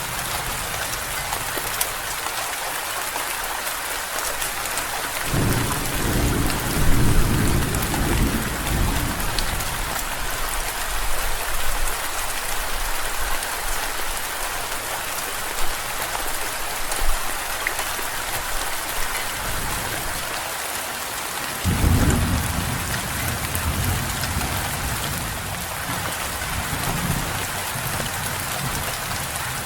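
Steady rain falling, with two low rolls of thunder: one about five seconds in and a second, fading more slowly, about twenty-two seconds in.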